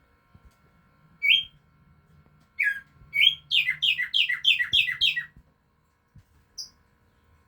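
A songbird, known locally as tumba yegua, singing: a couple of separate chirps, then a quick run of about six notes that each slide down in pitch, and one short high note near the end.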